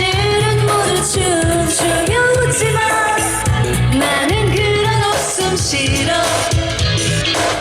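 Live Korean pop song: a sung melody over a band backing with a steady bass beat.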